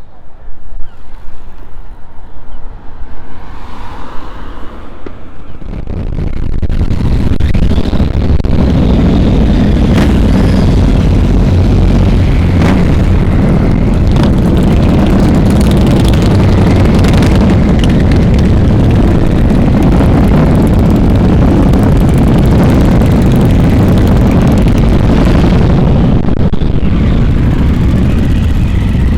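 Motorcycle riding on the road with heavy wind rumble on the microphone. It turns into a loud, steady rumble about six seconds in.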